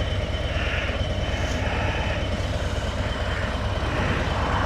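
Motorcycle engine running steadily, a low even rumble with road and wind noise over it.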